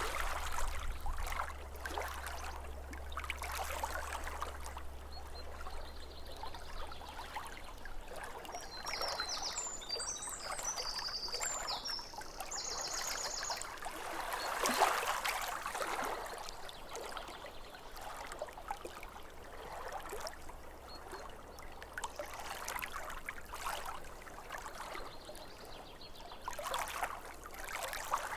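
Small waves lapping at a lake shore in irregular splashes. A bird sings a short run of high chirps about nine to fourteen seconds in.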